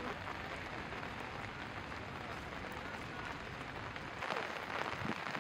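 Steady rain falling and pattering on wet stone and puddles. About four seconds in, the sound turns brighter and closer and the low rumble drops away.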